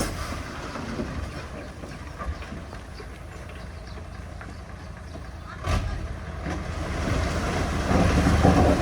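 Heavy diesel earthmoving machinery running with a steady low rumble. A single sharp knock comes about six seconds in, and the engine grows louder near the end.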